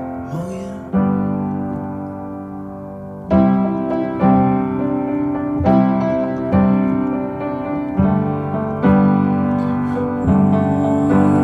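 Background music: a piano playing slow chords without singing, struck about once a second, each ringing out and fading.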